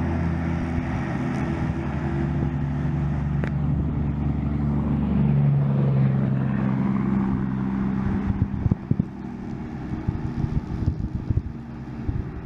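Grasshopper 900D zero-turn mower's three-cylinder Kubota D1305 diesel running steadily under load while mowing tall wet grass, its pitch shifting about five seconds in. From about eight seconds it falls quieter, broken by irregular crackles of wind on the microphone.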